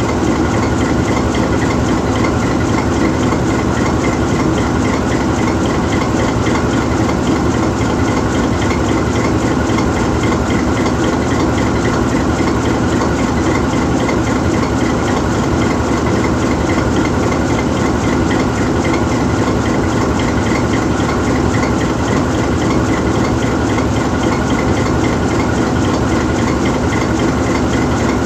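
GE U20C diesel-electric locomotive's 12-cylinder FDL diesel engine idling steadily while the locomotive stands still.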